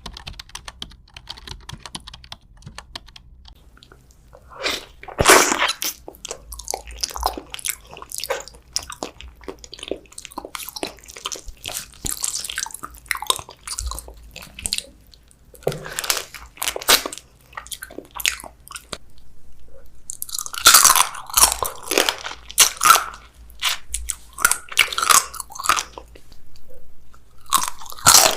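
Close-up crunchy chewing and biting of food in irregular bursts, loudest about five seconds in and again between about twenty and twenty-six seconds in.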